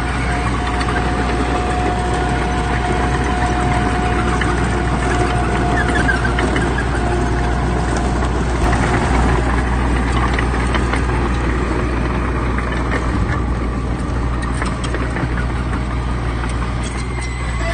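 Heavy earthmoving machine's diesel engine running steadily, with a high steady whine over it for the first half and scattered light clanks and rattles.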